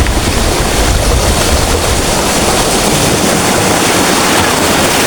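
Big waves breaking and rushing in strong wind, with wind buffeting the microphone; the low rumble of the buffeting eases about halfway through.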